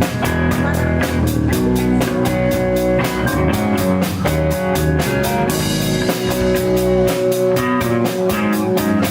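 Rock music: an instrumental passage with guitar and drum kit playing a steady beat, with no vocals.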